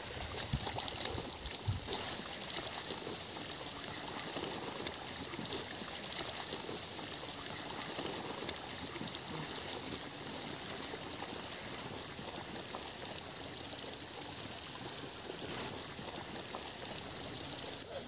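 Steady running water, flowing evenly throughout, with a few dull low knocks in the first couple of seconds.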